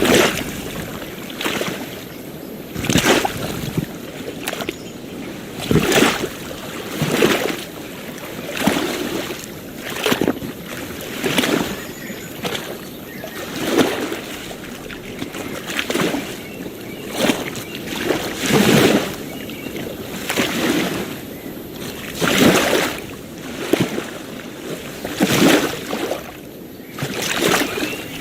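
Small waves lapping and splashing in quick, irregular surges, about one every second or two, over a steady hiss of water.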